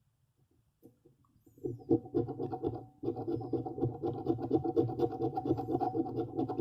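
A scratch-off lottery ticket being scraped rapidly to reveal the multiplier. The scratching starts about a second and a half in and keeps up with a short break around three seconds.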